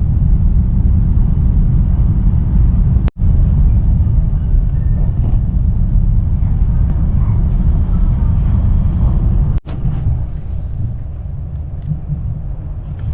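Steady low rumble of a high-speed train in motion, heard from the passenger cabin, broken twice by abrupt cut-offs.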